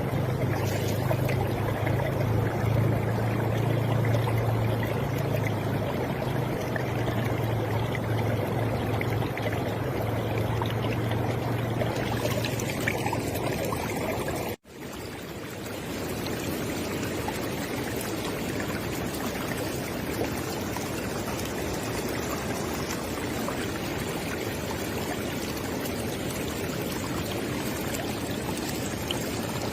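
River water flowing, a steady rushing wash, with a low rumble under it in the first part. About halfway through it drops out for an instant and comes back slightly quieter, without the rumble, as at a splice between two recordings.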